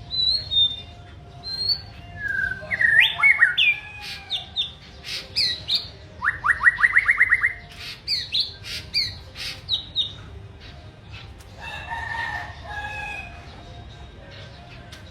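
A songbird singing: a varied string of clear whistled notes and chirps, with a fast run of about ten rising notes around the middle, and softer, lower notes near the end.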